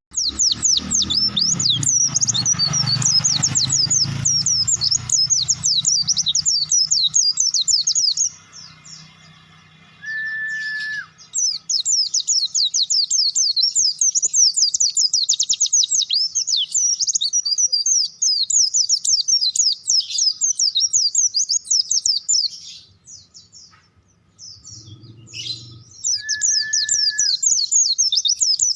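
Caged white-eye (pleci) singing at full voice: long runs of rapid, high twittering song broken by short pauses. Twice a brief steady whistle sounds lower down.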